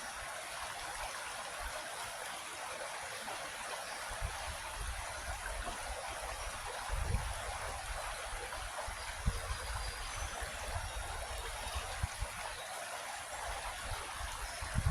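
Creek water flowing in a steady rush, with a few brief low rumbles, the strongest about seven seconds in.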